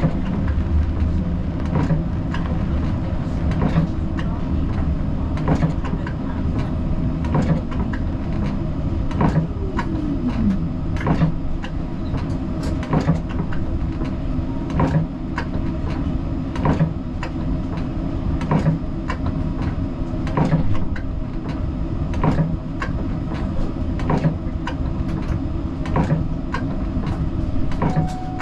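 Siemens Combino tram running on street track, heard from inside the driver's cab: a steady rumble of the running gear with regular clicks of the wheels over rail joints, and a falling whine about ten seconds in.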